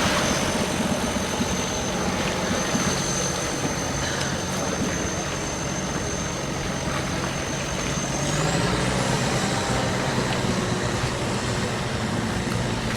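An engine running steadily with a thin high whine over it; about eight seconds in the engine speeds up and its pitch rises and holds at the higher speed.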